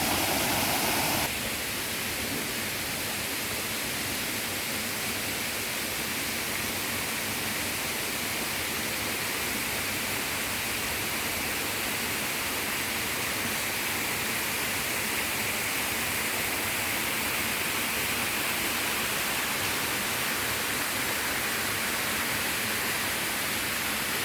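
Waterfall water rushing in a steady, even hiss. Just over a second in it drops a little and loses some of its lower rush, then runs on unchanged.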